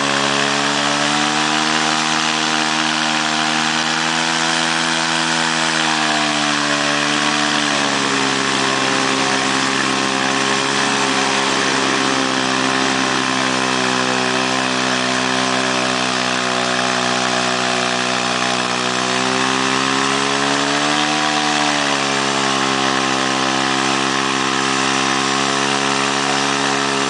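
Off-road trail vehicle's engine running steadily, its pitch climbing slowly for a few seconds, dropping sharply about eight seconds in, then swelling and falling back again around twenty seconds in.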